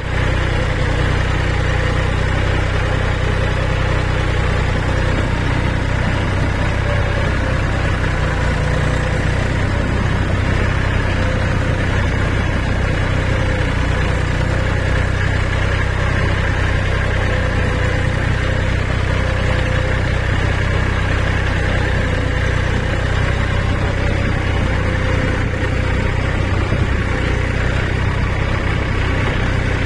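Farm tractor engine running steadily at an even pitch and level.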